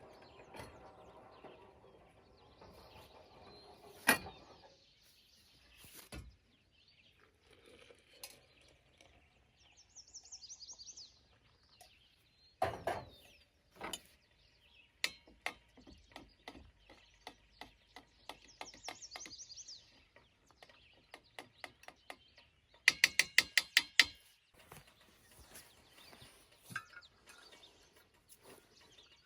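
Scattered clicks and knocks of camp gear being handled, with a fast run of about a dozen loud ratchet-like clicks a little over 20 seconds in. Birds sing short phrases in the background.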